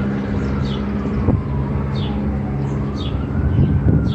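Idling vehicle engine humming steadily under the slow rising and falling wail of an emergency-vehicle siren, with short high chirps repeating about every half second.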